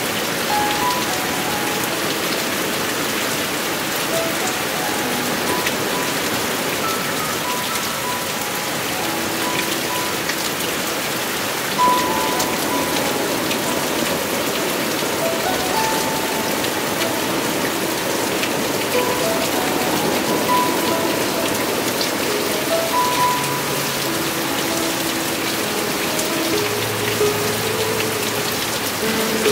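Heavy monsoon rain falling steadily, a dense even hiss of drops on surfaces. Faint soft notes of background music sound underneath, more of them near the end.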